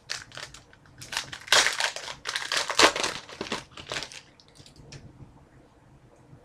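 Plastic wrapper of a hockey card pack crinkling as it is handled and opened, in a run of rustles over the first four seconds that then thin out to a few faint ones.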